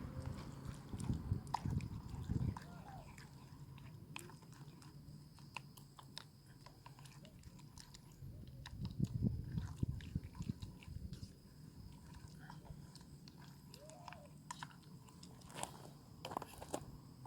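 Close rustling and crunching with scattered clicks, loudest in two stretches near the start and about nine seconds in, with a faint steady high whine underneath.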